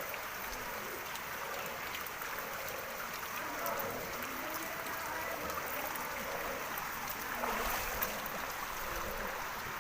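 Floodwater flowing steadily, with faint voices in the background.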